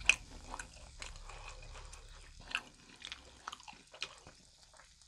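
A person chewing grilled chicken skewers close to the microphone: irregular clicks and soft crunches of the mouth, with one sharp click just after the start.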